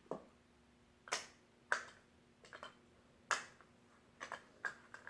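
About eight sharp plastic clicks and clacks, spaced irregularly, from the pieces of a VTech plastic toy train set being handled and worked, over a faint steady hum.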